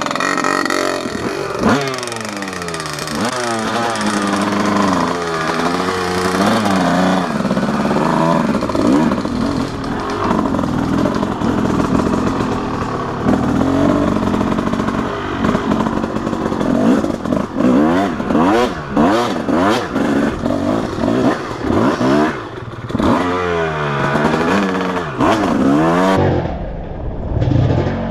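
Dirt bike engine revving up and down again and again while being ridden, its pitch rising and falling repeatedly as the throttle opens and closes.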